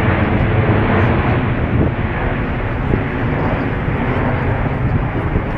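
Jet noise from a British Airways Airbus A380's four Rolls-Royce Trent 900 turbofan engines during a low fly-by, a loud steady rumble that eases slightly near the end.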